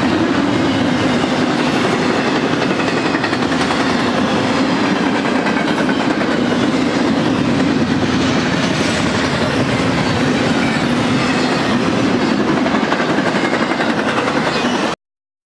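BNSF double-stack intermodal train's loaded well cars rolling past: a steady, loud rolling noise of steel wheels on rail. It cuts off suddenly near the end.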